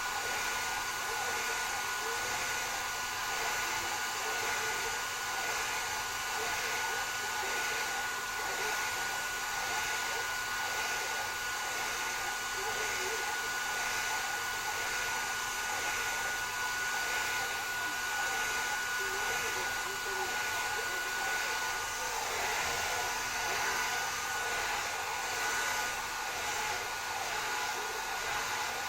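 Hand-held hair dryer blowing steadily: a rush of air with a thin steady whine, wavering slightly as the airflow moves through the hair.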